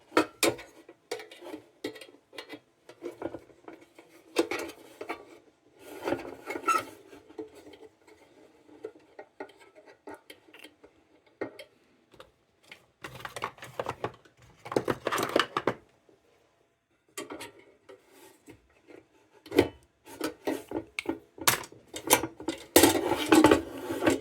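Irregular metallic clinks, knocks and scrapes as the sheet-metal parts of a restored tubular kerosene lantern are handled and fitted together. There is a short pause partway through.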